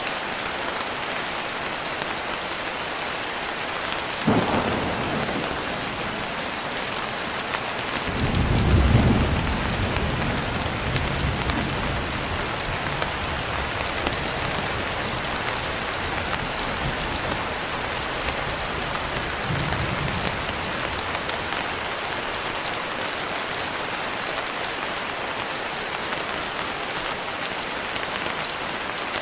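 Steady rain falling, with thunder: a sharp crack about four seconds in, then a loud low rumble about eight seconds in that dies away over several seconds, and a fainter rumble near twenty seconds.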